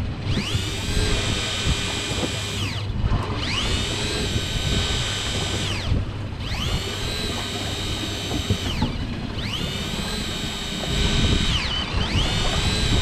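Electric fishing reel motor whining up to speed, holding a steady pitch, then winding down, in repeated spells of about two and a half seconds, four times and starting again near the end, over a steady low rumble.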